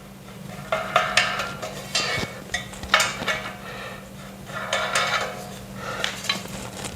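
Metal furniture parts and hardware clinking and rattling as they are handled and fitted together, in short irregular bursts of clicks with a brief ring.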